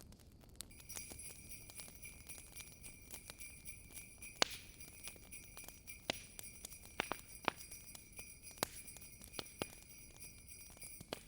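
Jingle bells jingling steadily over a crackling wood fire, with scattered sharp pops from the fire, the loudest about four and a half seconds in. The bells drop out briefly at the very start.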